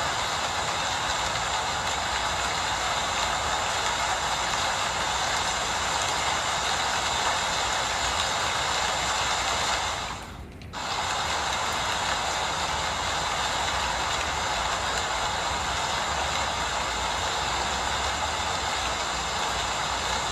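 Steady rain falling, an even hiss, which drops away briefly about halfway through before carrying on.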